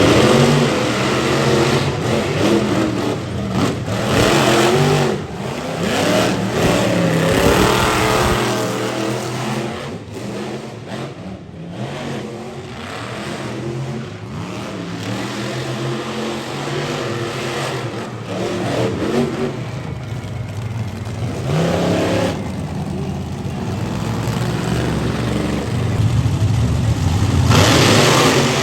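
Monster truck engine revving hard again and again, its pitch climbing and falling, with the loudest full-throttle bursts near the start and near the end.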